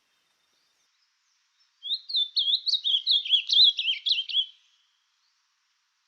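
A songbird singing one rapid, high, warbling phrase of quickly rising and falling notes, starting about two seconds in and lasting nearly three seconds.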